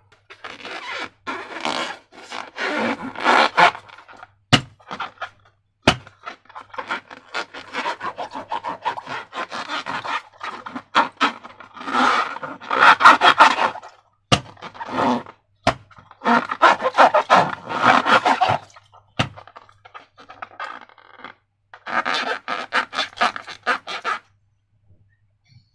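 Slime being squished and worked by hand, giving bursts of sticky crackling and squelching, with a few sharp clicks of air bubbles popping in between.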